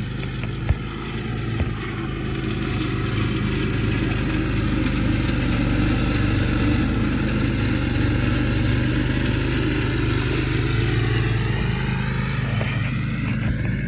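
Riding lawn mower engine running as it cuts grass. It grows louder over the first few seconds as it comes closer, and its pitch shifts near the end as it turns or passes.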